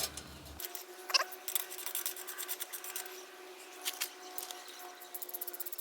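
Small clicks, taps and scraping of metal exhaust-whistle inserts being handled and pushed into an exhaust tip, with a short rising squeak about a second in.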